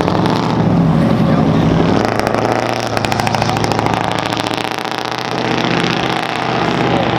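A motor vehicle engine running with a steady low hum, loudest at the start, easing off in the middle and picking up again near the end.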